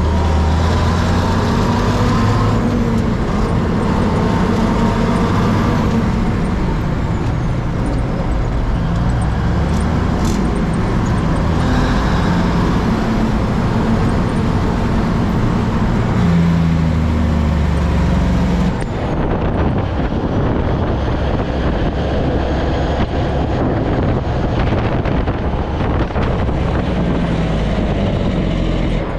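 LT Mack truck's diesel engine heard from inside the cab while under way, with steady road and wind noise. The engine note rises and falls several times as the truck is worked through the gears of its twin-stick transmission.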